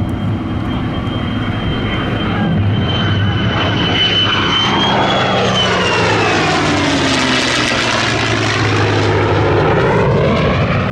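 F-35 Lightning II jet making a loud pass over the crowd; its high engine whine drops in pitch about five seconds in as it goes by, and the engine noise swells and sweeps as it passes.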